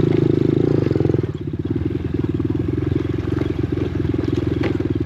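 Dirt bike engine running, easing off a little over a second in and then running on at a steady, lower pace.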